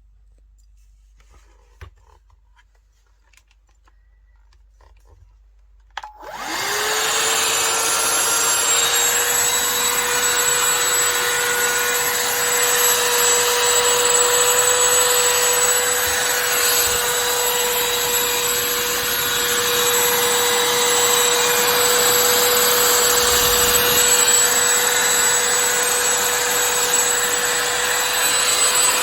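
A few faint clicks, then about six seconds in a click as a Shark handheld cordless vacuum cleaner is switched on; its motor spins up quickly and settles into a steady, high whine over a loud rush of air.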